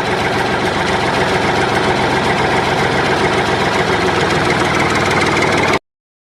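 Steady engine-like running noise with a fast, even pulse, like a small engine idling. It cuts off abruptly to silence near the end.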